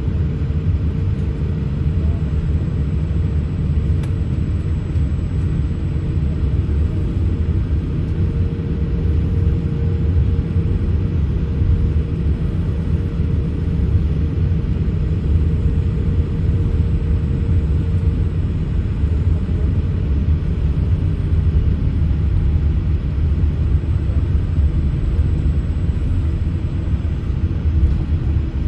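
Steady low rumble in the passenger cabin of a Boeing 787-8 taxiing at low thrust before takeoff, with a faint steady hum that fades out about 18 seconds in.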